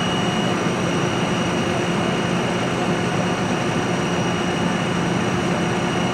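A large engine running steadily at constant speed, a continuous drone with a few steady tones over dense noise.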